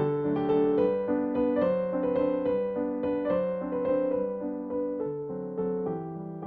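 Background piano music, a gentle melody of soft, evenly paced notes.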